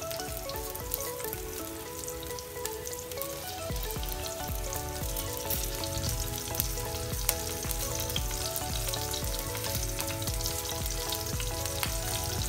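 Sliced onions and green chillies sizzling and crackling in hot coconut oil in a clay pot. Background music with a steady low beat plays over the frying.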